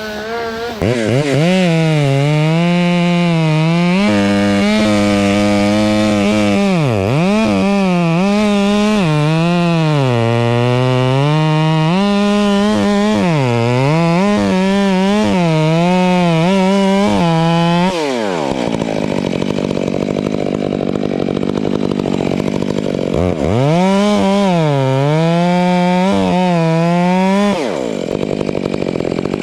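Two-stroke chainsaw running at high revs while cutting, its pitch dipping and recovering again and again under load. About two-thirds of the way through it drops to idle, revs up for a few more seconds of cutting, then drops back to idle near the end.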